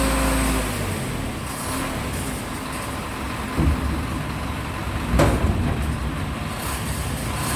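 Dump truck: its steady engine note drops away about a second in, then a rough rumbling with two heavy thumps, the second louder, as the load tips out of the bed.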